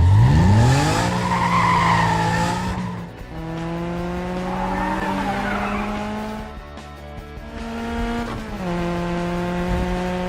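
Cartoon car engine sound effect revving up and then holding a steady pitch, three times over, with a tyre squeal in the first couple of seconds.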